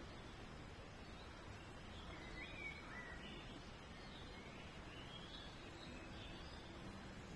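Faint birdsong: a few short chirps and twittering notes, clustered in the middle of the stretch, over a steady low outdoor background hiss.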